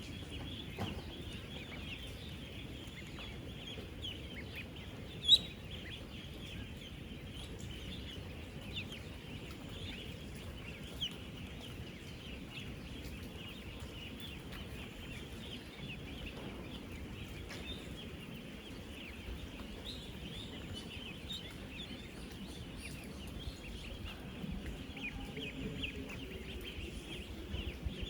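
Dense, continuous peeping chorus of thousands of 10-day-old ducklings, a steady chatter of many short high calls, with one sharp, louder sound about five seconds in.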